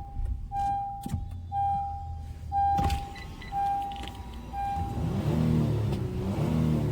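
2021 Honda Ridgeline's cabin warning chime beeping six times, evenly about once a second, with a sharp knock a little before the third second. From about five seconds in, a low whirring, wavering electric motor sound takes over.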